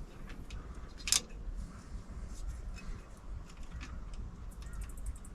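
Small metal hand-tool clicks and taps while the carburettor's hold-down nuts and washers go on. There is one sharper click about a second in, and a quick run of ticks near the end.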